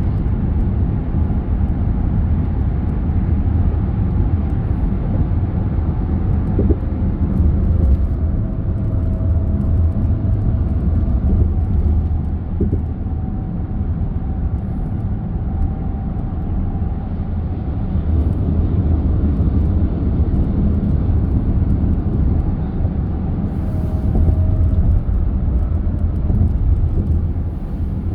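A car driving on the road: a steady low rumble of tyres and engine with no change in pace.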